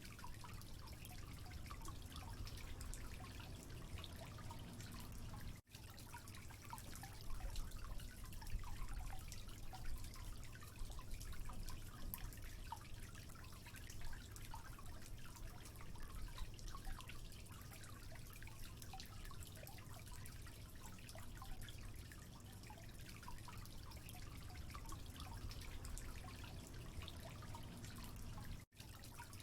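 Water dripping and trickling steadily, many small drops over a low rumble; the sound drops out for an instant twice.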